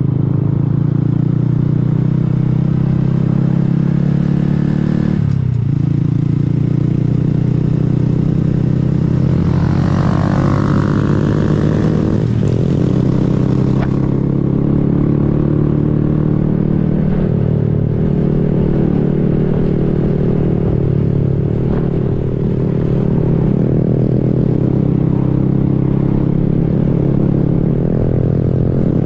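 A 2020 Honda Grom's small single-cylinder four-stroke engine running while riding, its note rising and falling with the throttle and dipping briefly about five seconds in. A rush of hiss rises over it for a few seconds in the middle.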